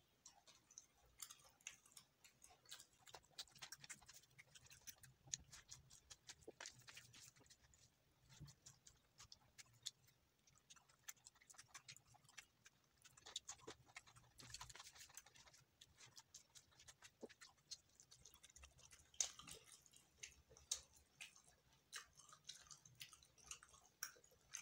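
Faint chewing and wet mouth clicks of a man eating chicken and rice by hand, coming in irregular clusters.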